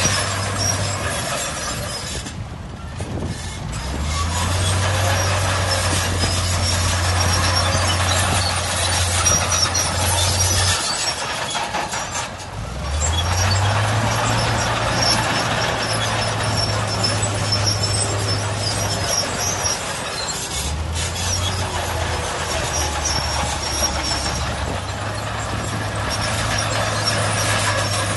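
Heavy diesel earthmoving machinery working in sand: a low, steady engine note under a dense mechanical clatter. The engine eases off twice, around three and twelve seconds in, and each time climbs back up and holds under load.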